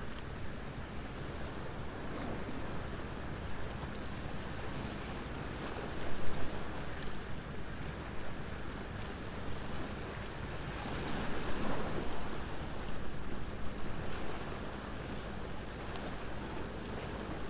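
Sea waves washing onto a shore in a steady wash that swells about six seconds in and again around eleven to twelve seconds. A wood fire crackles faintly over it, with a few small pops.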